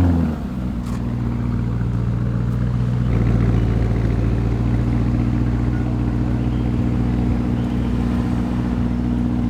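A Lamborghini's engine running steadily at low revs, a low, even hum that steps up slightly about three seconds in.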